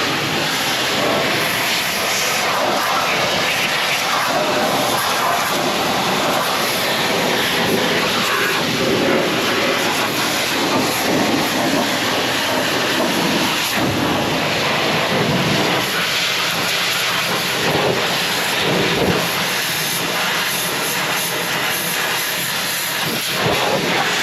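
Pressure washer spraying water onto the truck: a loud, steady rushing hiss whose lower tone swells and fades as the spray moves across surfaces.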